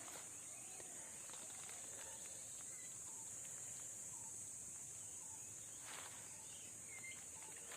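A steady, high-pitched insect chorus, with a few faint short chirps scattered through it and one soft rustling step about six seconds in.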